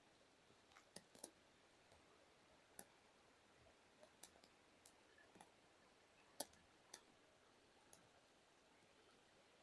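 Near silence broken by about a dozen faint, scattered clicks, the loudest about six and a half seconds in.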